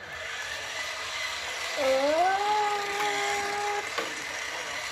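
Toy RC car's electric drive motor whining: about two seconds in the pitch rises quickly, holds steady for a second and a half, then cuts off, over a steady hiss.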